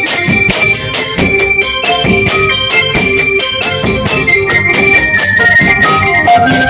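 Isan phin band music: a melody on the phin lute with held notes over a steady drum beat.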